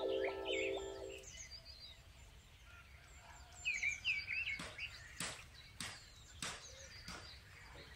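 Background music fades out about a second in, leaving faint outdoor ambience with birds chirping. In the second half come five sharp clicks, a little over half a second apart.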